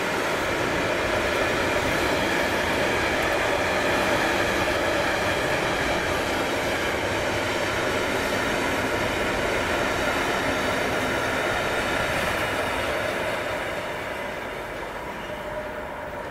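Container freight train's wagons rolling past at speed, a steady rolling rumble of steel wheels on rail, fading about three-quarters of the way through as the train moves away.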